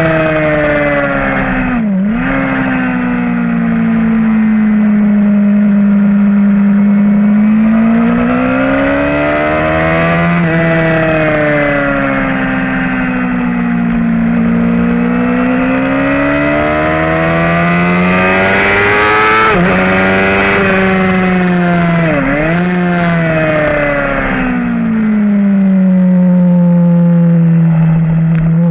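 2011 Suzuki GSX-R750 inline-four with a full Yoshimura exhaust running hard on track, recorded on the bike: the engine note climbs and falls in long sweeps as the rider works the throttle through the corners, with two brief sharp dips in pitch, about two seconds in and again past twenty seconds.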